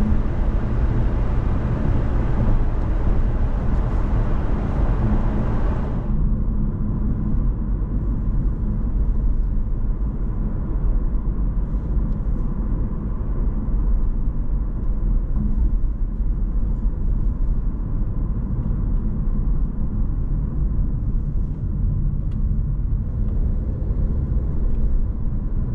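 Steady road and drive noise of a Honda ZR-V under way, heard from inside the cabin. About six seconds in, the higher hiss drops away abruptly, leaving a lower rumble.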